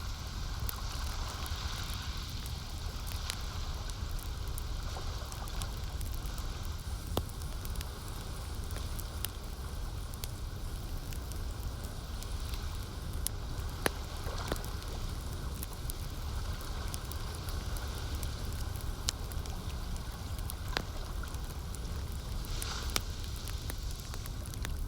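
Campfire crackling, with scattered sharp pops over a steady low rumble and hiss; the sharpest pop comes about fourteen seconds in.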